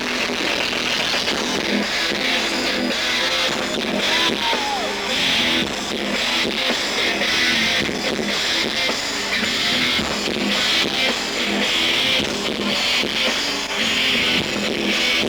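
Live metal band playing, with distorted electric guitars. The recording is thin, with little bass.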